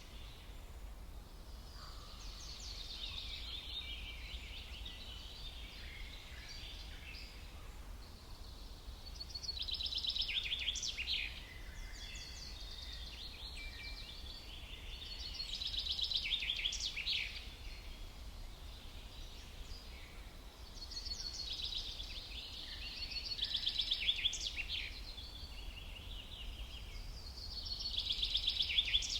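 Songbirds singing in about five bouts of rapid, high trilled notes, a few seconds apart, over a steady low background rumble.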